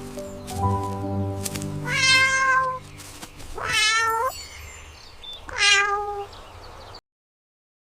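Cat meowing three times, about two seconds apart, over soft background music; the sound cuts off suddenly near the end.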